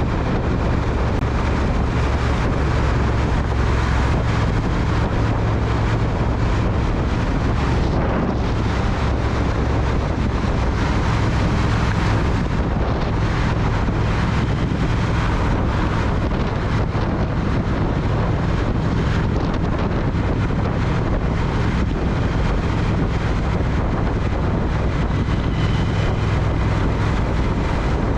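Triumph Speed Twin parallel-twin motorcycle engine running steadily while riding, with wind rushing over the microphone.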